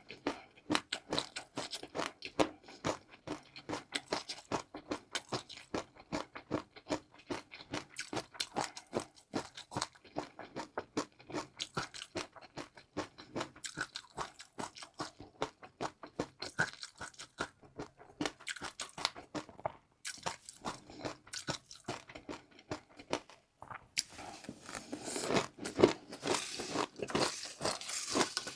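Close-miked crunching and chewing of crisp food: a fast, uneven run of sharp cracks, with a denser, louder stretch of crackling near the end.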